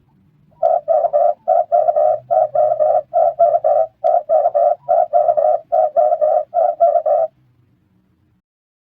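Red turtle dove calling: a long run of short, rapid coo notes, about four a second in clusters of two or three, that stops near the end.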